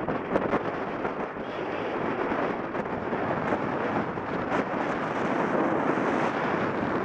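Strong wind buffeting the microphone in a steady, dense rush, with a few brief sharp cracks.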